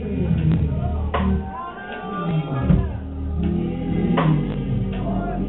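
Live worship band music playing, with steady low notes and scattered drum hits.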